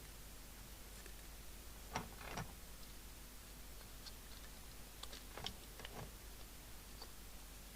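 A few light clicks and taps of small parts being handled as the CB radio and its microphone are put back together. Two sharper clicks come about two seconds in, and more follow around the middle and near the end.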